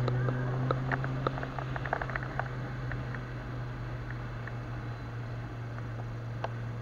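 Car engine running steadily at low speed, heard as a deep even hum from a camera mounted on the car's hood, with a few light clicks in the first couple of seconds.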